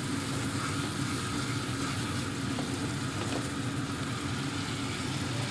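Spice paste (masala) frying in oil in a kadai, sizzling steadily as it is stirred with a wooden spatula, with a couple of light scrapes, over a steady low hum. This is the kosha stage, where the masala is fried down well.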